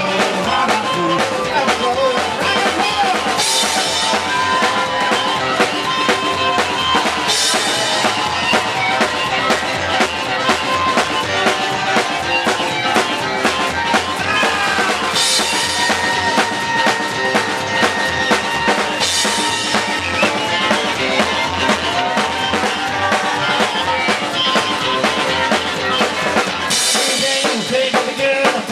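Rock and roll band playing live without vocals: a drum kit keeps a fast, steady beat with a cymbal crash every few seconds under sustained instrumental lines.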